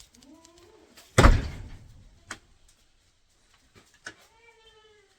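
A barn door bangs shut about a second in, the loudest sound, followed by a couple of small knocks. Goats bleat faintly just before it and again in one longer call near the end.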